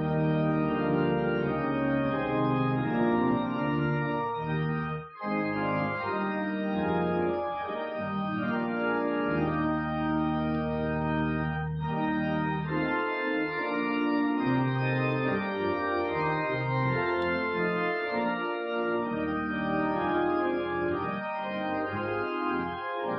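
Church organ playing sustained chords over held bass notes, with a short break in the sound about five seconds in.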